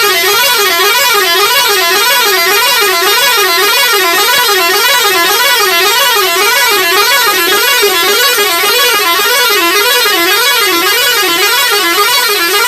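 Electronic vehicle siren warbling steadily up and down about twice a second, loud and unbroken, cutting off abruptly at the end.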